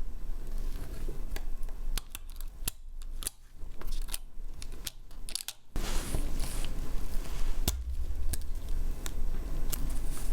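Scattered light clicks and scrapes of small tools and parts being handled on a smartphone, over a low steady background hum.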